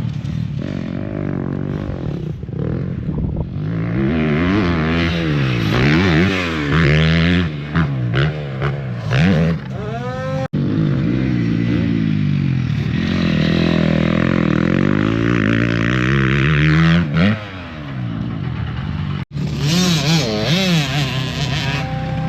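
Motocross dirt bike engines revving, several at once, their pitch rising and falling over and over. The sound drops out for an instant twice.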